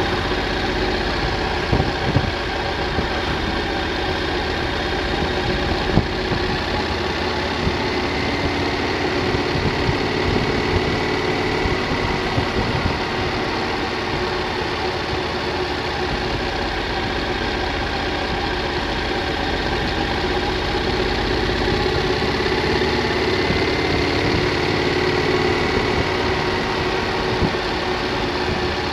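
Triumph Thunderbird motorcycle engine running at a steady cruise, mixed with wind and road noise.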